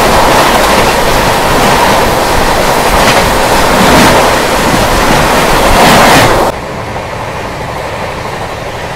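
Moving train: a loud, even rush of wheel and wind noise with a few faint clacks. About two-thirds of the way through it cuts suddenly to a quieter, duller running sound.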